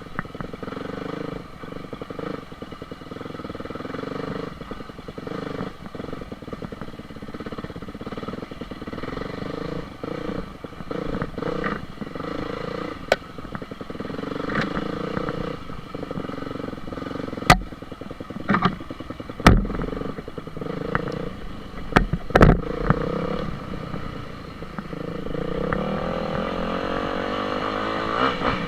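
Dirt bike engine running while being ridden, its pitch rising and falling with the throttle and climbing in a rev near the end. Several sharp knocks come a little past the middle.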